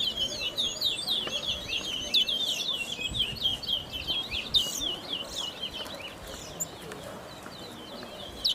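Caged brown towa towa finch singing in a song race: a fast, dense run of short high chirps, thinning out over the last couple of seconds.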